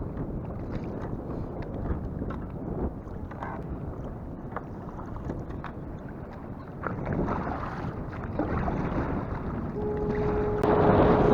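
Strong wind buffeting the microphone on a kayak in choppy sea, a continuous rumbling rush with scattered short knocks. The wind gets louder near the end.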